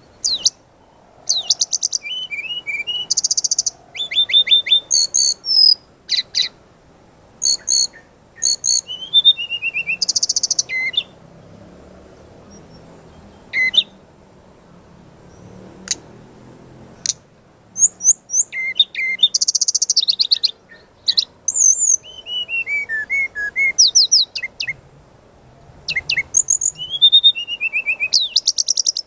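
Brown-chested jungle flycatcher (sikatan rimba dada coklat) singing hard in loud bursts of rapid trills, buzzy rattles and high whistled slurs, with a few lone sharp notes in a sparser stretch mid-way. This is the vigorous 'gacor nembak' song with sharp shooting notes.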